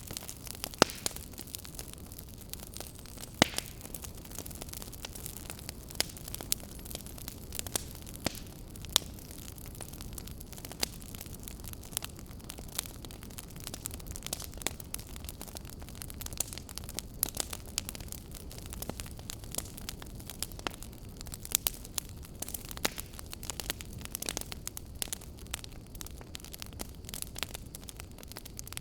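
Fire crackling: irregular sharp pops and snaps, several a second at times, over a steady low rumble and hiss.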